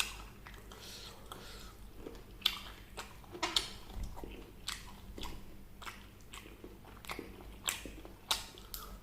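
Close-miked eating of fried chicken: crisp bites and wet chewing, with sharp crunches coming at irregular moments.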